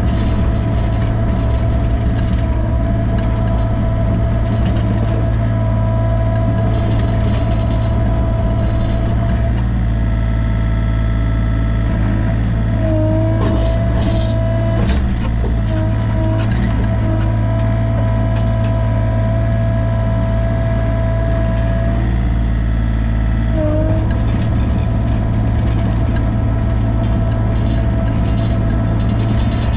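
Sany mini excavator's diesel engine running steadily under load, with a whine that dips in pitch briefly a few times. A few knocks come about halfway through.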